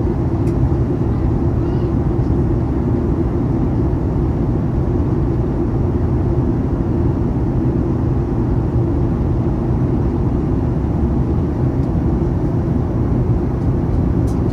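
Steady cabin noise inside a Boeing 737-900ER: the CFM56-7B engines and airflow make an even, low rumble that holds at one level.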